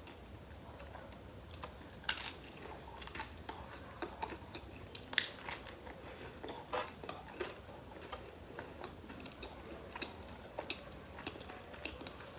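Chewing and biting a slice of cheese and pineapple pizza, with irregular crisp crunches and mouth clicks as the crust is bitten and chewed.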